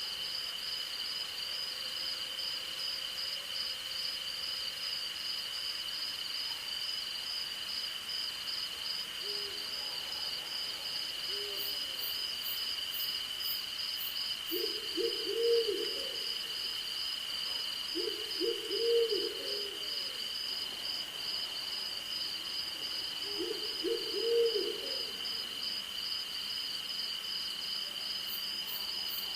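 Night insect chorus of crickets: a steady, fast-pulsing high trill over a second steady high tone. An owl hoots in three short runs of low hoots, about halfway through and twice more at a few seconds' spacing.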